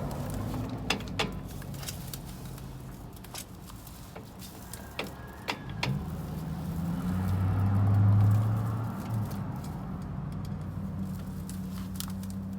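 Car engine running with a steady low hum that swells to its loudest about eight seconds in, with several sharp metallic clicks in the first six seconds.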